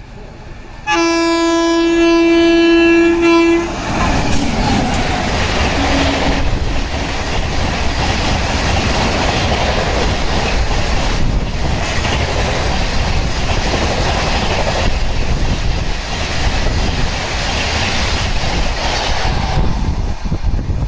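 Indian Railways express train running through a station at high speed: a single steady horn blast of about three seconds, then the coaches rushing past with rhythmic wheel clatter on the rails, dropping away near the end as the tail passes.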